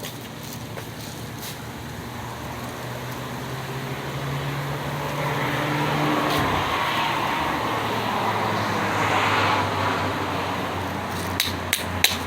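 A road vehicle passing by: engine and tyre noise swell, drop in pitch as it goes past, and fade. A few sharp clicks come near the end.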